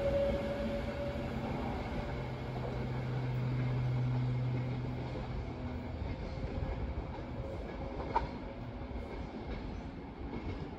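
Train running with a steady hum that swells and then fades away as it moves off, followed by a single sharp click about eight seconds in.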